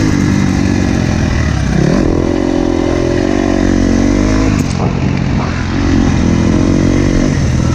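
Dirt bike engine running hard on a motocross track, its pitch rising and falling with the throttle and dipping briefly twice.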